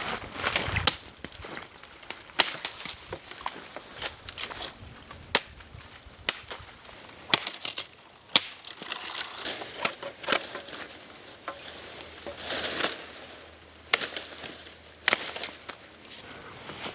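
Metal pieces clinking together, about eight times at uneven intervals, each clink ringing briefly with a high tone, among softer handling noises.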